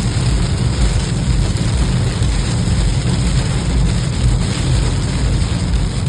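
Steady low rumble of a car on the move in the rain, with an even hiss of rain over it.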